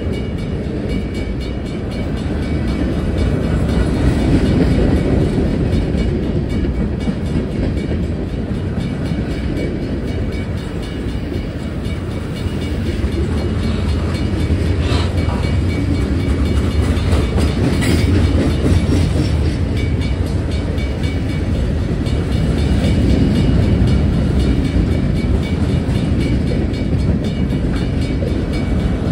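Freight train cars rolling past at close range: a steady rumble of steel wheels on the rails with some clickety-clack over the rail joints.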